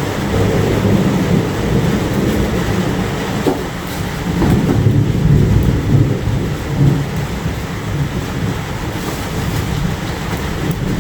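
Heavy rain falling steadily under a deep rolling rumble of thunder that swells and fades.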